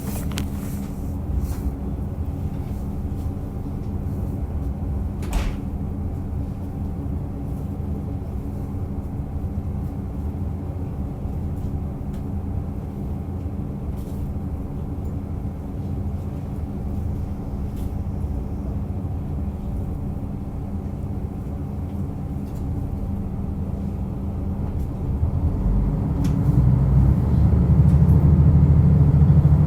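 Diesel railcar running on the Rumoi Main Line, heard from on board: a steady low engine drone with wheel and track noise and a single click about five seconds in. Near the end the engine grows clearly louder and deeper as it powers up.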